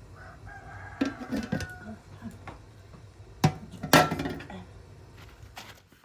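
A rooster crowing briefly about a second in, then two sharp knocks about three and a half and four seconds in.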